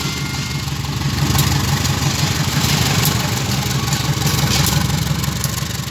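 CC203 diesel-electric locomotive's engine running steadily with a low, pulsing throb.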